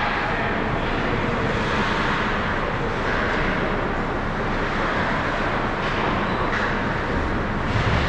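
Ice hockey arena ambience: a steady wash of skates on the ice and crowd noise, with a few sharp knocks in the second half.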